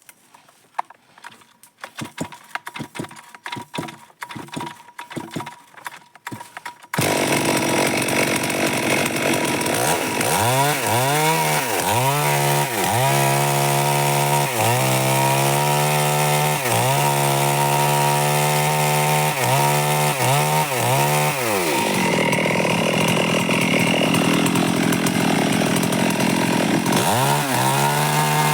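Scattered knocks for several seconds, then a Stihl MS 382 two-stroke chainsaw cuts in abruptly and runs at high revs through dry wood. Its engine note dips and recovers again and again, holds steady for a few seconds, then dips again near the end.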